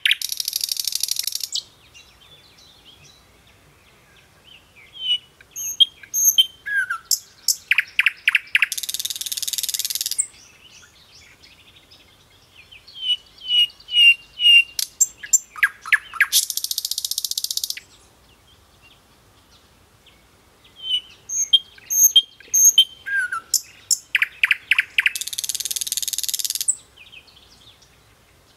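A songbird singing: three phrases about eight seconds apart, each a run of short high chirps and notes ending in a loud, fast buzzy trill about two seconds long.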